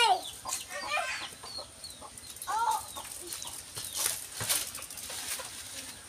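A few short bird calls, each rising and falling in pitch, the clearest about two and a half seconds in, with faint clicks and taps between them.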